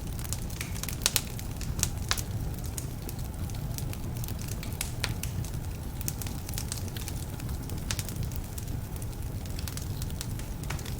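Wood fire burning in a fireplace: a steady low rumble with irregular sharp crackles and pops from damp logs, a few louder pops among them.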